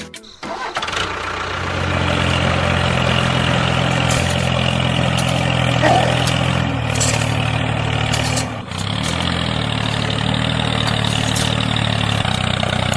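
Small engine of a homemade miniature tractor running steadily, starting about half a second in. It dips briefly a little past the middle and then picks up again.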